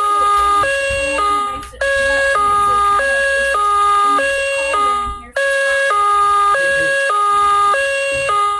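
Electronic two-pitch alert tone, stepping between a high and a low pitch every half second or so, repeating in phrases about three and a half seconds long with a short break between them.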